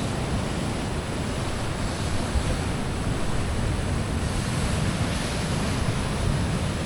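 Ocean surf and swell washing against a rock ledge, with wind rumbling on the microphone: a steady rushing noise with no distinct events.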